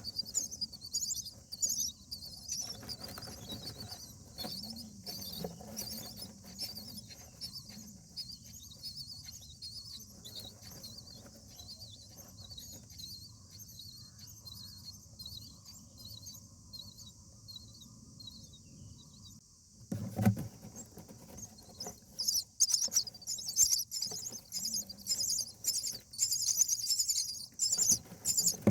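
Indian myna nestlings cheeping in rapid, high-pitched runs, fainter for a while and then louder and denser from about three-quarters through, with scratching and rustling in the nest and a bump about two-thirds in.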